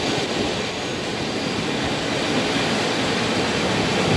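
Sagano Trolley Train rolling along the track: a steady running noise of wheels on the rails.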